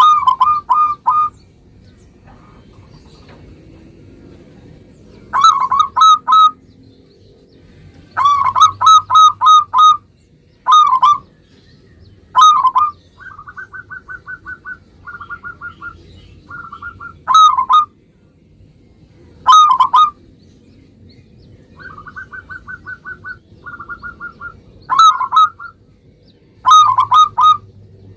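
Local zebra dove (perkutut) cooing: loud bursts of quick, rolling coos every few seconds, with softer runs of rapid short notes in between.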